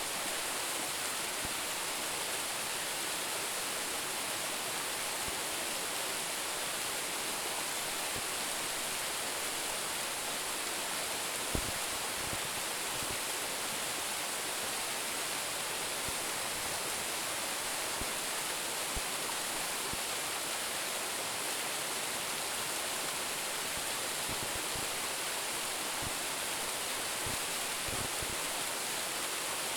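Waterfall of about a ten-metre drop, its falling water making a steady, even rush with no change in level. A few faint low thumps come and go.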